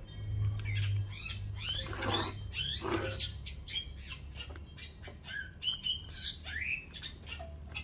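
Small birds chirping and squawking in quick, pitch-sweeping calls, over a low steady hum.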